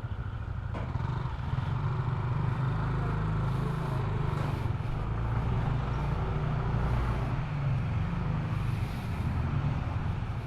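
Motor scooter engine running while riding, getting louder about a second and a half in, then holding steady.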